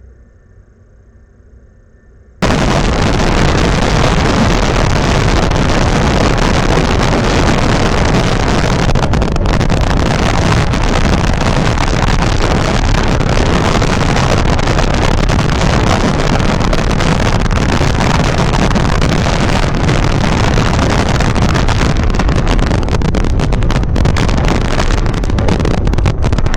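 Strong wind buffeting the microphone: a loud, steady rumbling roar that starts suddenly about two seconds in and keeps on.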